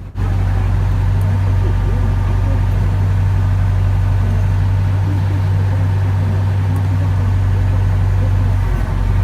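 Kubota GL367 tractor's diesel engine running at a steady speed, with a slight dip near the end.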